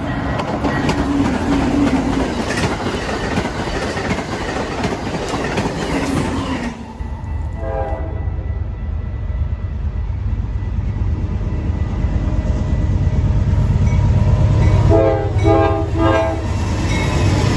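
An Amtrak passenger train passes at speed on the near track. After a cut, a Norfolk Southern-led diesel freight train approaches with its engines rumbling louder. Its air horn sounds briefly about halfway through and again in several short blasts near the end.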